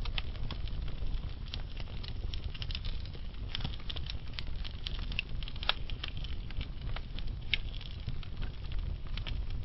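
Logs burning slowly in a fireplace: a steady low rumble of flame with scattered sharp crackles and pops throughout, a few louder pops about halfway and three-quarters of the way through.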